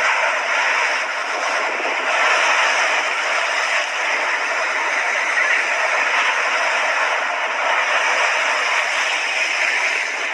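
Sea waves washing on the shore: a steady surf hiss with gentle swells in loudness.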